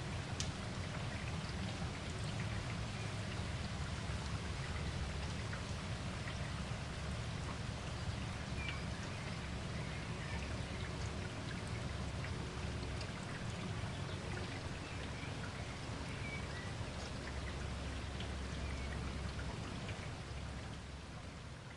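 Steady rain falling, with individual drops striking sharply close by over a low rumble. It begins to fade out just before the end.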